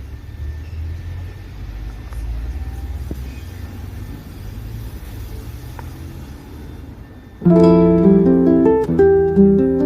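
A low steady rumble, then plucked acoustic guitar music comes in suddenly and loudly about seven and a half seconds in.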